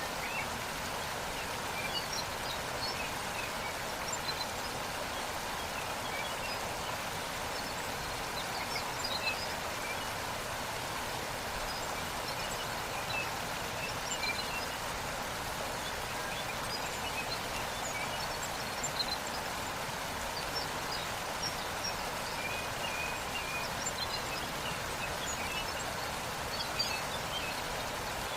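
Waterfall's steady rush of falling water, with brief faint bird chirps scattered through it.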